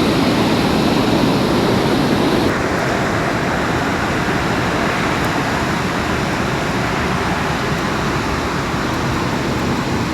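Steady rushing of river water, which loses some of its hiss and drops a little in level about two and a half seconds in.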